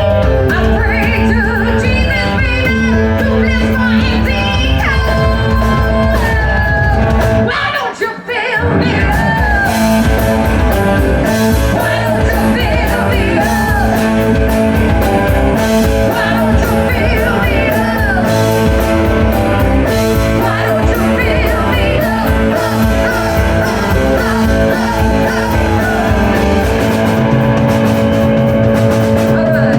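Live rock band playing with a lead vocalist singing over guitar, bass and drums. The band drops out briefly about eight seconds in, then comes back in.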